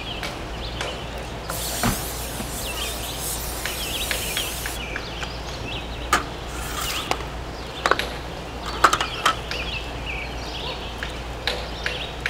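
Small birds chirping and tweeting in the background, broken by several sharp clicks and knocks. A steady hiss lasts about three seconds, starting about a second and a half in.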